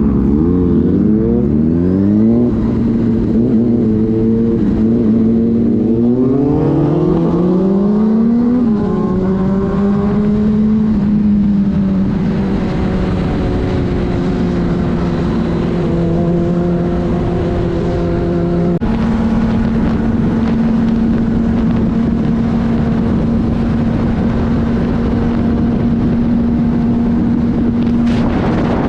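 Inline-four sport-bike engine running at highway speed with wind rush. It pulls up in pitch twice in the first nine seconds as it accelerates, then holds a steady cruising drone, with a sudden step up in pitch about two-thirds of the way through.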